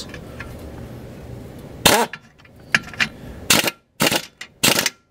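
Pneumatic impact wrench (air gun) with a 17 mm socket hammering in about five short bursts in the second half, running the lower control arm bolts down tight.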